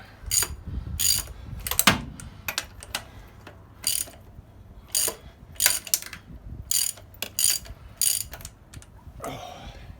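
Hand ratchet clicking in short repeated strokes, a burst every half second to a second, as a rusted exhaust manifold nut turns out. Near the end there is a softer scraping.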